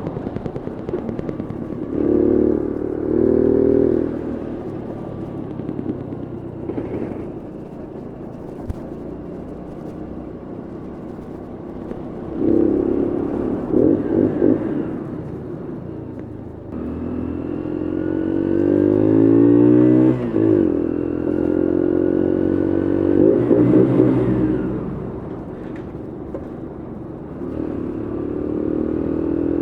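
Bullit Heritage 125cc monkey bike's small single-cylinder four-stroke engine being ridden. It swells in several bursts of throttle and falls back between them. Near the middle the pitch rises steadily under acceleration, then drops sharply at a gear change.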